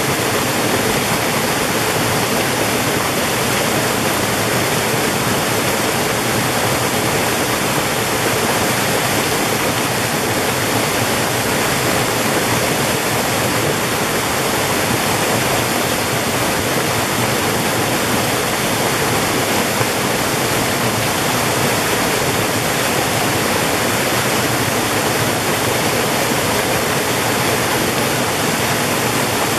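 Mountain valley stream rushing steadily over rocks, a constant loud splash and roar of water with no breaks.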